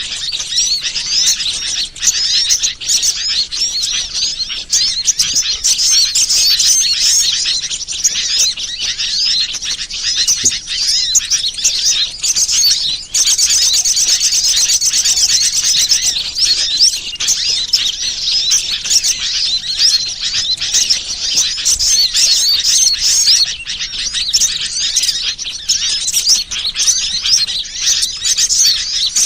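Bird-lure recording of many small birds chirping and trilling at once, a dense, continuous high-pitched chatter, with a burst of fast, evenly repeated notes about halfway through.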